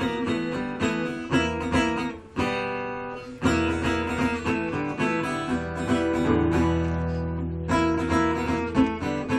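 Acoustic guitar playing an instrumental picked riff, a run of single plucked notes over a sustained low bass note that comes in about three and a half seconds in.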